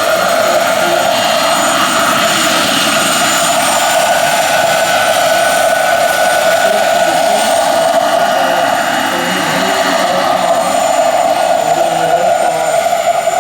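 Turbine-powered radio-controlled scale model helicopter in flight, its small gas turbine giving a steady high whine.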